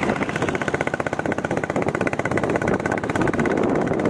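Royal Enfield Bullet 350's single-cylinder engine running while the motorcycle is ridden, a fast, even beat of firing strokes.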